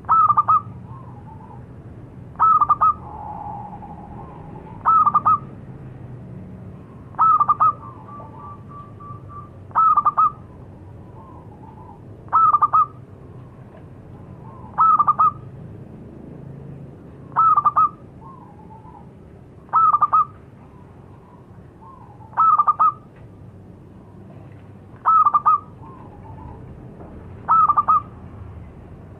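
Zebra dove (perkutut) cooing: a short phrase of quick, clipped notes repeated regularly about every two and a half seconds, twelve times, over a faint low background hum.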